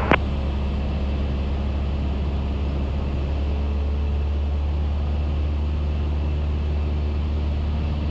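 Cessna 172S's four-cylinder Lycoming IO-360 engine and propeller running at steady power in flight, a constant deep drone heard from the cockpit. A short radio click comes right at the start as the previous transmission ends.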